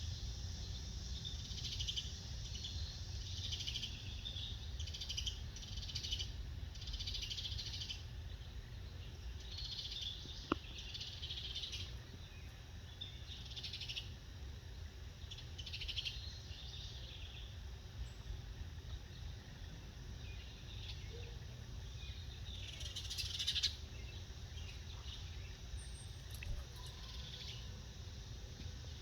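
Wild birds chirping and calling in short, irregular bursts, over a steady low background rumble, with one sharp click about ten seconds in.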